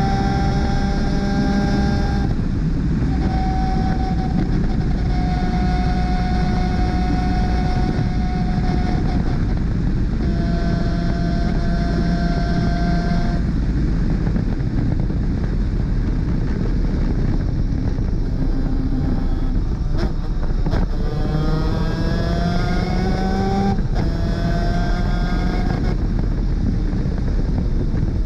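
Onboard a 250cc superkart: its two-stroke engine running at high revs at racing speed over a constant wind rush. It holds a nearly steady high pitch in long stretches with brief breaks between them, and near the end the pitch climbs twice as it accelerates.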